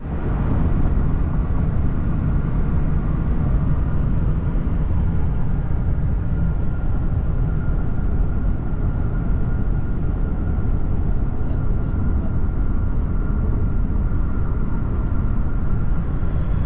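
Steady road and wind noise of a vehicle travelling at highway speed, with a faint steady whine running under it.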